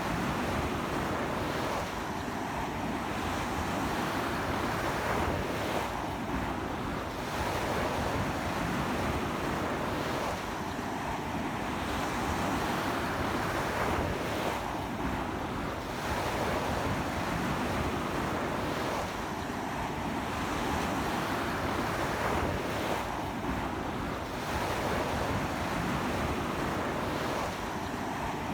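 Ocean waves breaking and washing onto the shore in strong sea wind: a continuous rush of surf that swells and eases about every four seconds.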